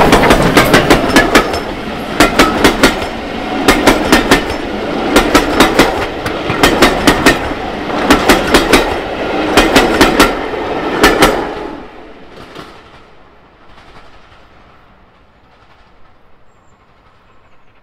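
Railway coaches of a passing train clattering over rail joints, a quick group of wheel clicks about every second and a half as each carriage passes. The clatter stops about eleven seconds in and the sound fades away.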